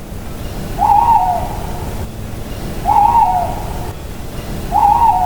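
Owl hooting: three hoots about two seconds apart, each dipping slightly in pitch at its end, over a steady background hiss and rumble.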